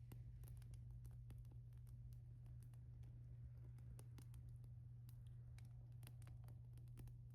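Wood fire crackling softly: irregular sharp pops and snaps, several a second, over a faint steady low hum.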